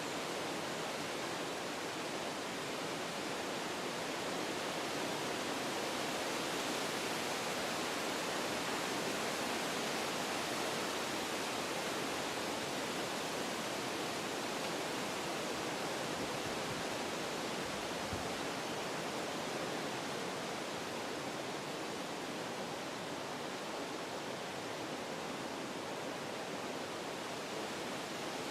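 Wind blowing through forest trees, a steady even hiss that swells slightly in the first half and then eases a little.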